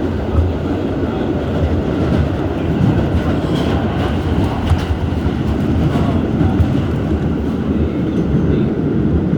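R211S rail car running along the track, heard from on board: a steady rumble of wheels on rails with faint, scattered clicks from the track.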